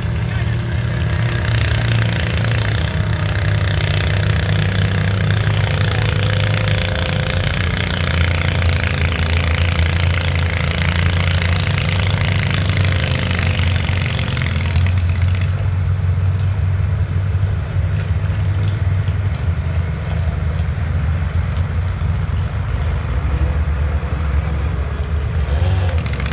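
A pulling garden tractor's engine running loud and steady, pulling the weight sled. About halfway through, the harsher high-pitched part of the sound drops away while the deep engine note carries on.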